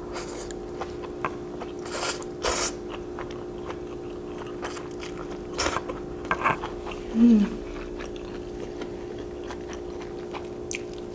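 Close-miked eating sounds: a mouthful of sweet-potato glass noodles (japchae) slurped in from chopsticks, then chewing with scattered wet clicks and smacks, the loudest about seven seconds in along with a brief hummed sound. A steady low hum runs underneath.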